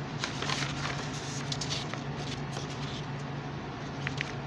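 Steady low hum with an even hiss over it, and a few faint ticks.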